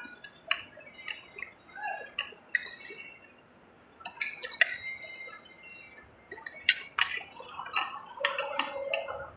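Cutlery clinking and scraping on plates while eating: scattered sharp clinks, with a quieter lull about three to four seconds in.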